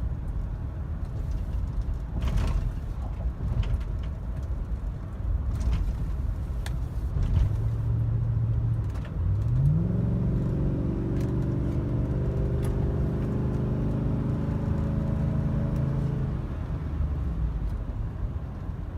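Chevy Tahoe's 5.3-litre V8 running through a Borla Pro XS muffler: a low exhaust rumble, then about nine seconds in the engine note rises quickly and holds steady for about six seconds before dropping back.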